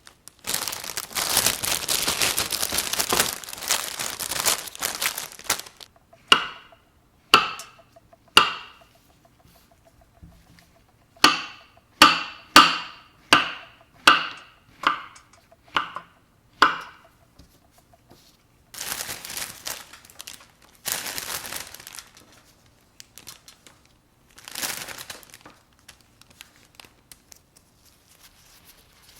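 Plastic packaging crinkling, then a knife cutting mushrooms on a cutting board in about a dozen sharp, slightly ringing strokes that come faster midway, followed by more brief crinkling.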